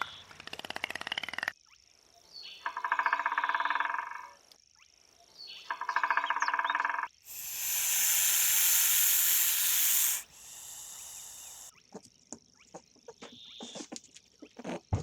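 A run of different animal sounds: two similar short pitched calls, then a loud steady hiss lasting about three seconds, then scattered squeaks and clicks near the end.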